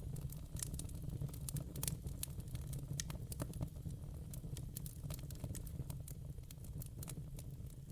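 Wood fire burning in a fireplace: a steady low rumble of the flames with irregular sharp pops and crackles of the burning logs.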